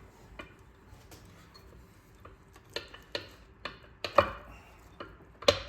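Metal parts of a Clinton small engine being worked loose and pulled out by hand during teardown. Scattered light clicks and knocks of metal on metal come more often and louder in the second half, the sharpest about four seconds in and again near the end.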